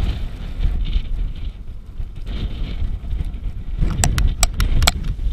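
Soviet-era van heard from inside as it jolts over rough ground: a steady low rumble, with a cluster of sharp rattles and knocks about four seconds in.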